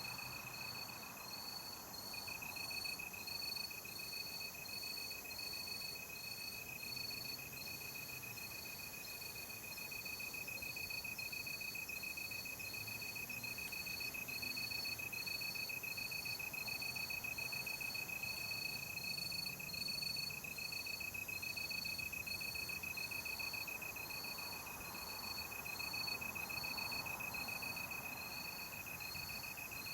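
Night insects calling together: one cricket gives a continuous high trill, while another insect chirps at a higher pitch in a steady rhythm a little more than once a second.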